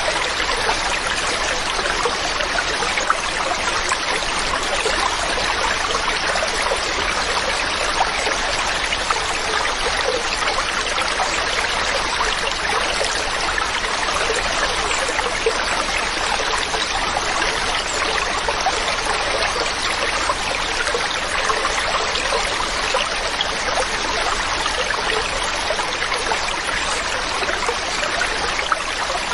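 Mountain stream running steadily over rocks, a continuous splashing rush of water.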